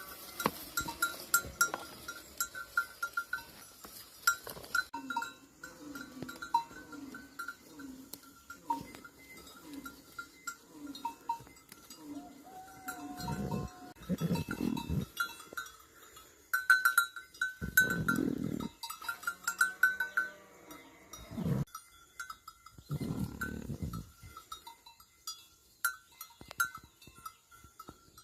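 A flock of sheep and goats bleating now and then, several long calls in the second half, with small animal bells clinking steadily.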